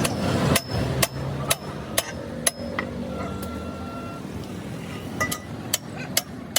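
Hammer striking metal in sharp, ringing blows about two a second, pausing for a couple of seconds midway and then resuming.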